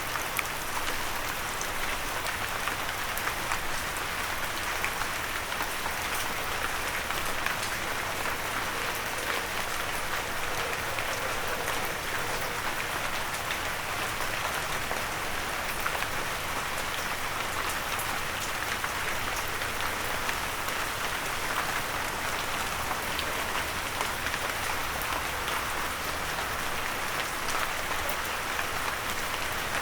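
Steady rain falling and pattering on a windowsill, a dense even hiss with many small drop ticks.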